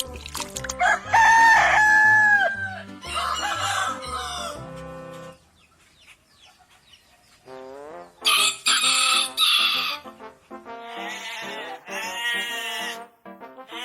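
Rooster crowing several times, long held calls, followed by shorter repeated calls near the end; background music with a bass line plays under the first part.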